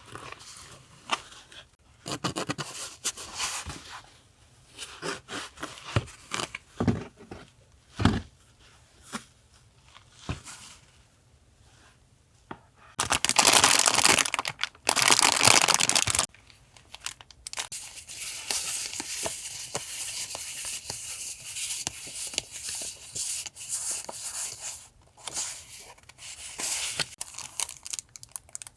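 Packaging of a box of stickers and paper goods being unwrapped by hand. Scattered taps and rustles come first, then a loud stretch of tearing for about three seconds midway, followed by steady crinkling and rustling of paper and plastic wrap.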